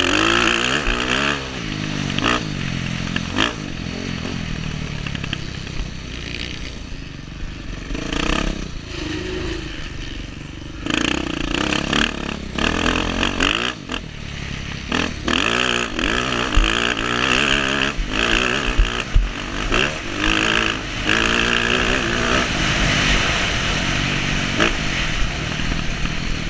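Dirt bike engine being ridden hard, its revs climbing and dropping again and again through the gears, with scattered knocks and rattles.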